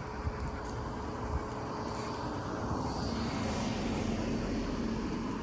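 A passing motor vehicle, its engine noise swelling about halfway through and holding steady.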